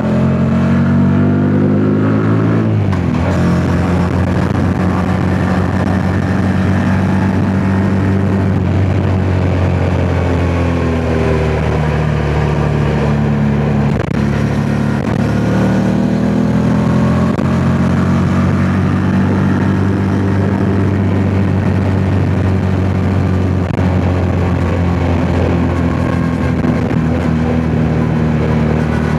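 Yamaha MT-07's 689 cc parallel-twin engine running under way, with wind rushing over the microphone. Its note drops sharply about three seconds in and holds steady, then sags around eleven seconds in and climbs back a few seconds later.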